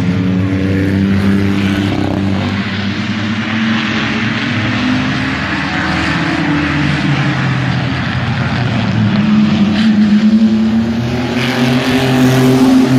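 Engines of several mini trucks racing around an oval track, running at high revs together. The engine tones climb and grow louder from about two thirds of the way in as the pack comes closer.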